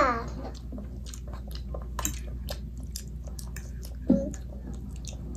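Close-up chewing and wet mouth clicks of someone eating spaghetti and meatballs, with one short voiced sound about four seconds in.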